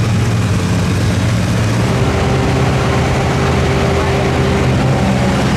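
Super stock diesel four-wheel-drive pulling truck's engine running loud and steady, its drone holding an even pitch with no rise or fall.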